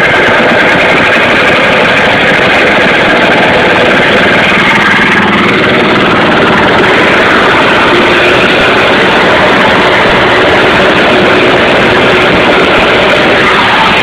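Warmed-up 160 cc Victa two-stroke lawnmower engine on a homemade go-kart, idling loudly and steadily.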